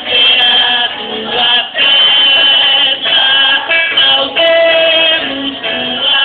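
Music with voices singing.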